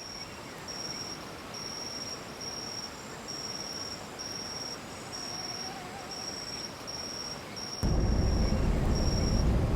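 An insect chirping: short, high, even pulses about once a second over a quiet outdoor hiss. About eight seconds in, a low rumble cuts in: a vehicle driving on a dirt road, heard with the windows open.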